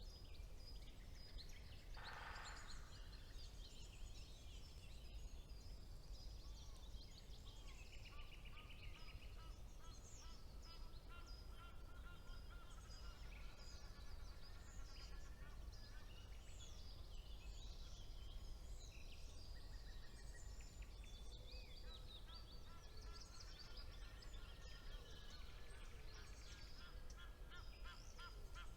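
Faint chorus of several songbirds singing over one another, with trills, rapid repeated notes and high chirps throughout. A short harsh call comes about two seconds in, over a steady low rumble.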